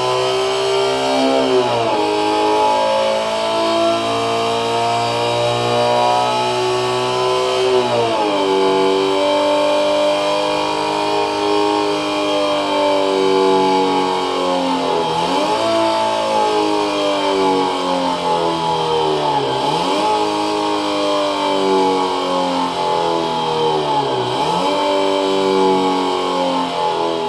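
Synthetic engine sound from a homemade optical generator (patterned disc, laser and photosensor driving a small speaker resonating in a can), imitating a Subaru EJ20 boxer four with equal-length exhaust. The buzzy, many-toned note runs steadily and dips sharply in pitch about five times, like revs dropping and picking up again.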